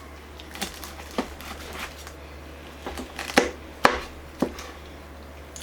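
Knife crunching through the crispy crackling skin of a roasted lechon belly: a handful of sharp, irregular crunches and clicks, the loudest two a little past halfway, over a steady low hum.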